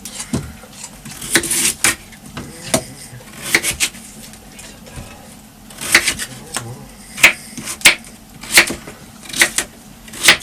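A run of sharp kitchen knocks and clicks of utensils on wood and crockery during food preparation: scattered at first, then coming regularly about one and a half times a second from about six seconds in.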